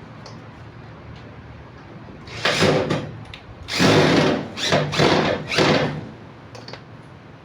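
Power drill running in four short bursts.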